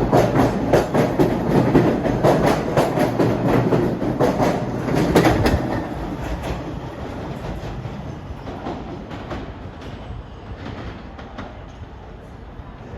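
Train passing: wheels clattering over the rail joints, loud for the first five or six seconds, then fading steadily as the train moves away.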